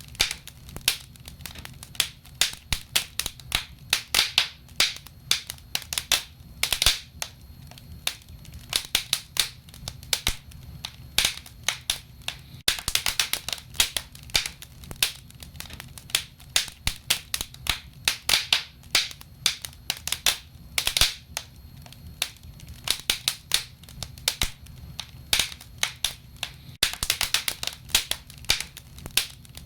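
Burning wood fire crackling and popping: many sharp snaps, some in quick clusters, over a low steady rumble of the flames.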